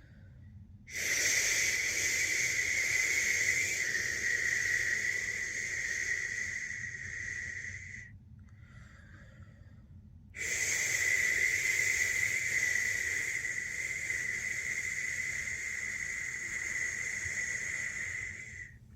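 A person's long, steady 'shhh' shushing, the soothing sound of the shush-pat method used to settle a newborn to sleep. There are two shushes of about seven to eight seconds each, with a short pause between them.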